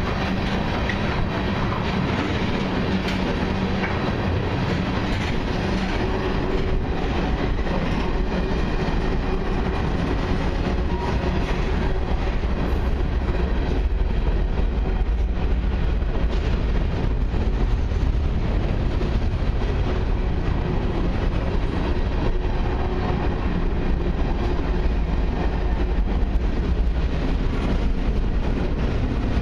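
Freight train's tank cars and covered hopper cars rolling slowly past: a steady rumble of steel wheels on the rails, with scattered clicks as the wheels run over the rail joints.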